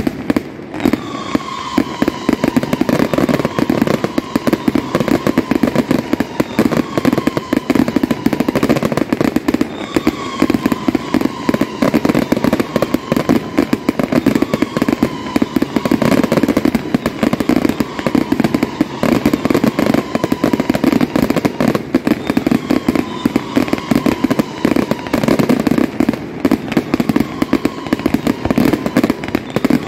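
Fireworks display going off without a break: dense crackling and popping bangs. Over them, a faint downward-sliding whistle-like tone repeats about every three seconds.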